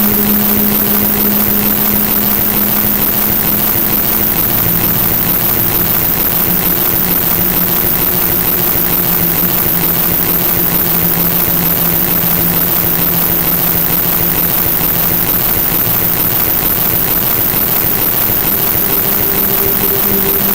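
Loud, steady noise track: an even hiss filling the whole range, with low humming tones underneath that step to new pitches a couple of times. It breaks off for a split second near the end.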